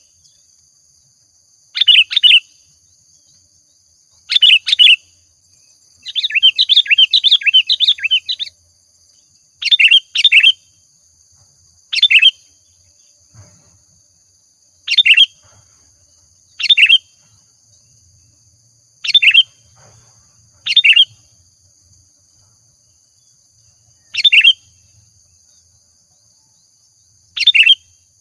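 Sooty-headed bulbul (kutilang) singing loudly in short bubbly phrases every two to three seconds, with one longer run of rapid chattering notes about six seconds in.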